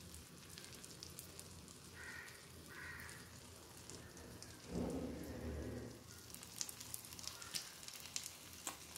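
Avocado dosa batter frying in oil on a hot tawa: a faint, even sizzle with scattered crackles. A brief low rumble comes about five seconds in.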